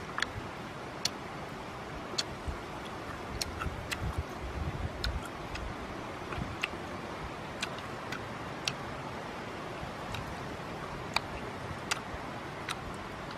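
Wet mouth clicks and lip smacks of someone chewing honeycomb, scattered and irregular, about one or two a second, over a steady background hiss, with a few dull low thumps in the middle.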